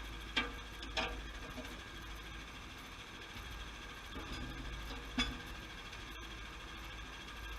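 Sawmill machinery running with a steady hum, with sharp knocks: two close together near the start and a third about five seconds in.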